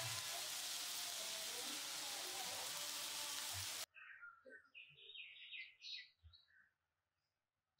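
Oil sizzling steadily in a frying pan as chicken seekh kebabs fry. The sizzle cuts off abruptly a little under four seconds in, and a few faint high chirps follow.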